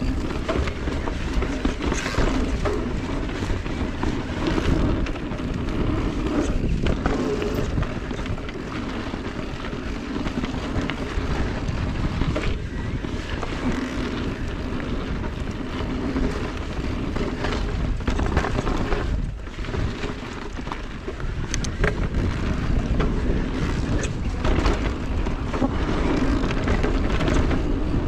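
Steady, buffeting rush of wind on the microphone mixed with tyre and trail noise from an electric mountain bike being ridden, rising and falling in loudness with a brief lull about two-thirds of the way through.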